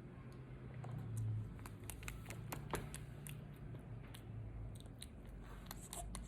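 A baby monkey chewing: irregular soft clicks and crunches, over a low steady hum.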